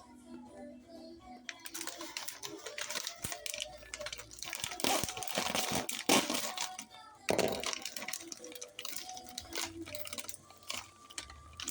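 Kitchen handling sounds: scattered clicks and taps with rustling, loudest in a noisy stretch of rustling about five to seven seconds in, over faint background music.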